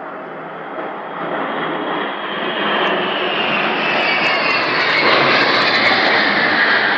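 Military aircraft of a parade flypast passing overhead: a rushing engine noise that builds steadily to its loudest near the end, with a whine that falls in pitch as it goes by.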